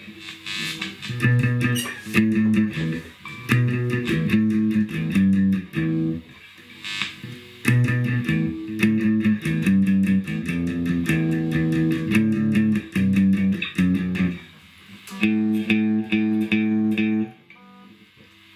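Electric guitar with single-coil pickups strummed in chords through a Fender tube guitar amp, a test play of the amp after its filter capacitors were replaced to cure a distorted, breaking-up sound. The chords change every second or so with short breaks and die away near the end.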